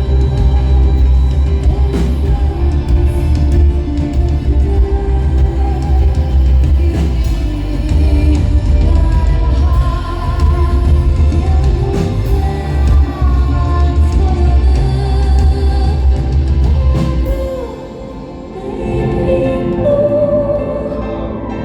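Live rock band playing loudly with drums, bass, guitars and singing. About three-quarters of the way through, the heavy bass and drums drop out, leaving a quieter passage with a sung line rising over it.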